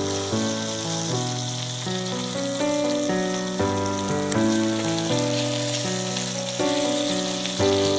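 Chicken and onion frying in a pan with a steady sizzle, under instrumental background music whose notes change every half second or so.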